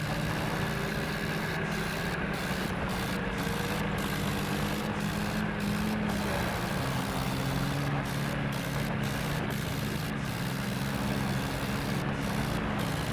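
Tractor's diesel engine running steadily at an even, unchanging speed.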